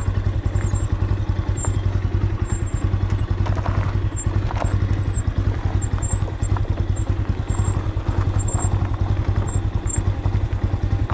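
Motorcycle engine running with a steady, even low beat.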